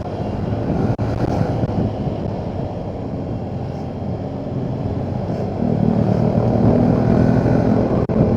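Motorcycle engine running as the bike rides off along the road, with wind and road noise; the engine note grows louder from about six seconds in.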